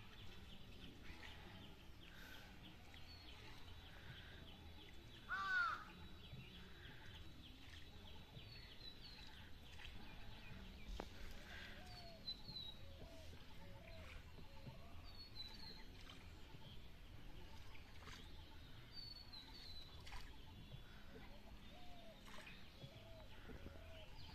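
Birds calling against quiet outdoor background noise: one louder call about five seconds in, with soft short chirps repeating every few seconds.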